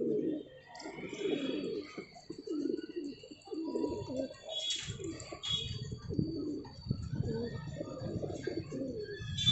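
Domestic pigeons cooing over and over in low, rounded calls, with a few brief high chirps about halfway through.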